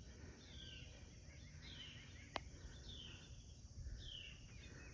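Quiet outdoor ambience: a bird repeats a short, high, falling chirp about once a second over a low rumble, with one sharp click about halfway through.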